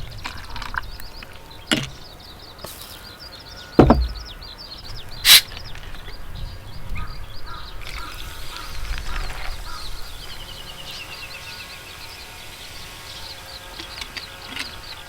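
Small birds chirping steadily, with a quick descending trill about ten seconds in. A few sharp knocks cut through: a low thud about four seconds in and a sharp click just after five seconds.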